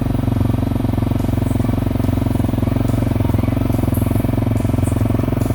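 Motorcycle engine running steadily at low revs close by, an even, rapid pulsing with no change in speed.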